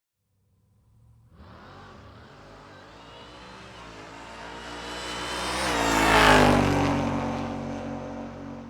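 A car approaching and passing by: its engine grows steadily louder for several seconds, peaks about six seconds in, then fades as its pitch drops.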